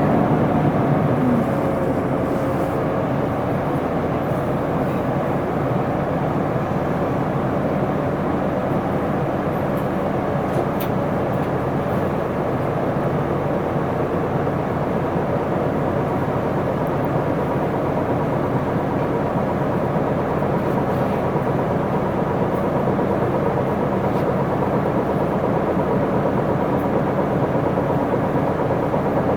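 Isuzu Erga city bus's 6HK1 inline-six diesel engine and drivetrain running steadily, heard from inside the passenger cabin, with a brief shift in engine pitch about a second in.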